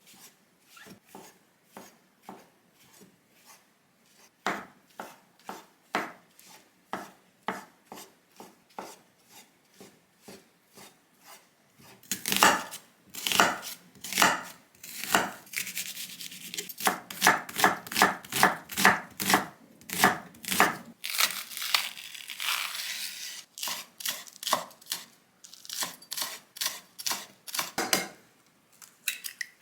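Knife chopping food on a cutting board in a long run of even strokes, fainter and about two a second at first, then louder and quicker from about twelve seconds in.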